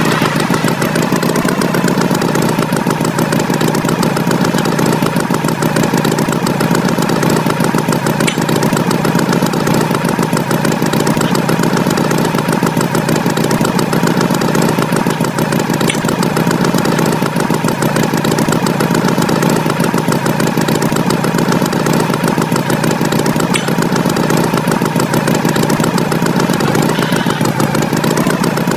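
Tractor engine running steadily at a constant speed, its rapid firing pulses unchanging throughout.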